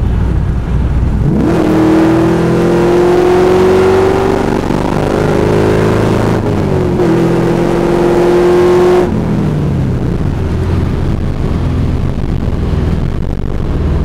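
Cammed Chevrolet LS1 V8 in a Camaro, with long-tube headers and a Magnaflow bullet muffler, running low and then accelerating about a second in. The pitch climbs steadily, dips briefly near the middle and climbs again, then falls back to a low, steady run after about nine seconds.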